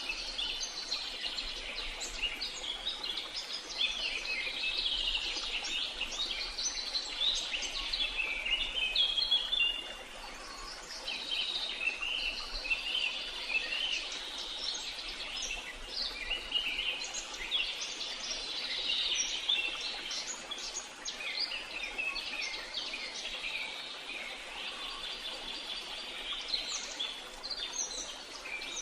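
Many birds chirping and singing together in a dense chorus of short, high, overlapping calls over a faint steady background hiss.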